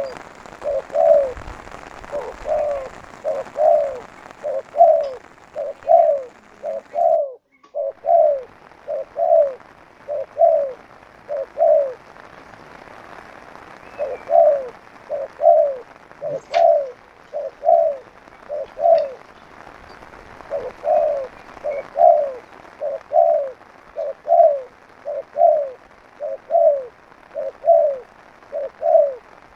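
Spotted dove (tekukur) cooing: low, soft coo notes repeated about once every two-thirds of a second in long runs, with a couple of short pauses. The sound cuts out completely for a moment about seven seconds in.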